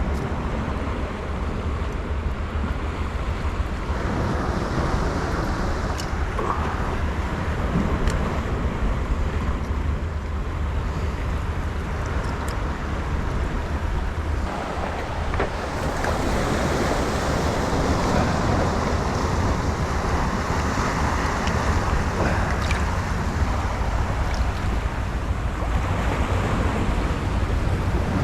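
Wind buffeting the microphone over the wash of sea waves: a steady noisy rush with a deep rumble, growing a little louder about halfway through.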